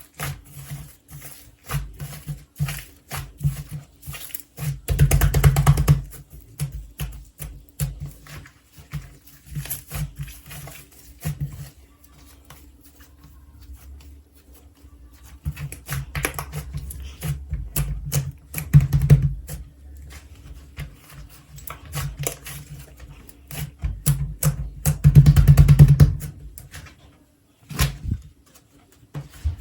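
Slime being squeezed, poked and stretched by hand, with rapid sticky clicking and popping and longer, louder squishing presses about five seconds in and again near the end.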